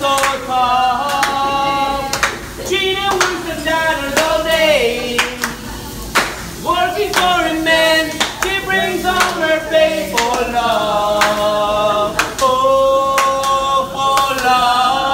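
Several people singing a song together, with sustained notes that glide between pitches, while hand claps keep a steady beat.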